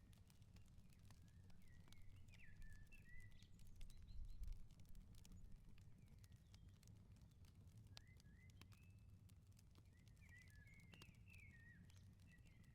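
Faint crackling of a wood fire, small scattered pops, with a songbird singing two short warbling phrases, one a couple of seconds in and one near the end, over a steady low rumble.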